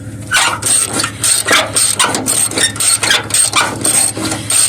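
Hand ratchet wrench clicking in quick repeated strokes, two or three a second, as it turns a fender bolt that has snapped and is just spinning, over a steady low hum.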